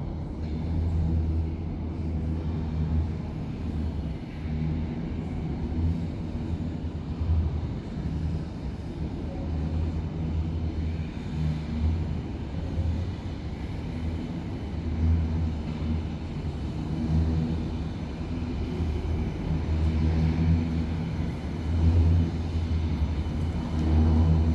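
U-Bahn train running, a steady low rumble that swells and fades unevenly.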